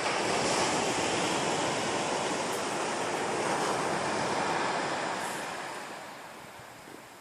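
Waves breaking on the shore: a steady rush of surf that dies away over the last couple of seconds.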